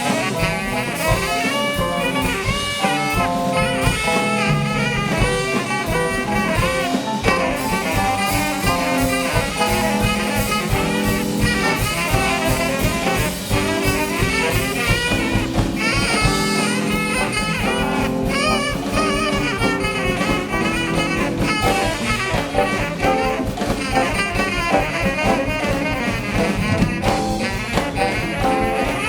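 Live band playing upbeat jazz, with horns carrying the melody over a steady drum-kit beat.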